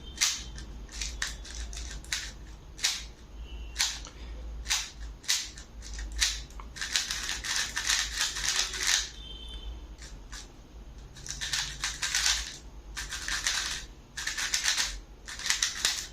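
Tornado V3 Flagship magnetic 3x3 speedcube being turned by hand: quick plastic clicks and clacks of the layers, coming in fast flurries with short gaps between.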